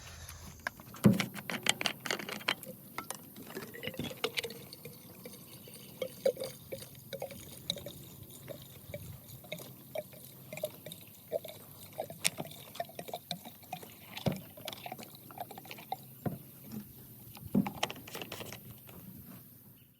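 Faint, irregular drips and taps of rainwater.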